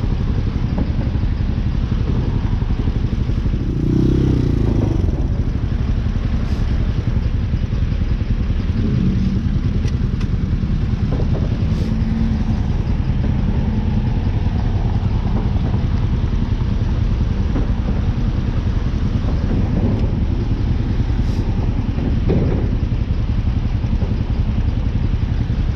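Hawk 250 motorcycle's single-cylinder engine running steadily while being ridden.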